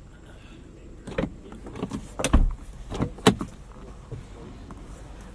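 Five knocks and clunks over a steady low rumble, the loudest a heavy thump a little over two seconds in.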